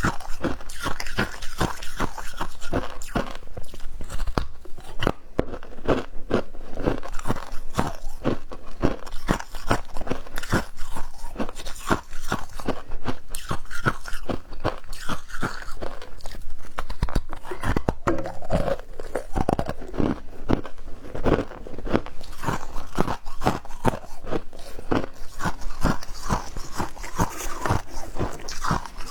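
Ice being bitten and chewed, close to the microphone: dense, rapid crunching from big bites, kept up without a break.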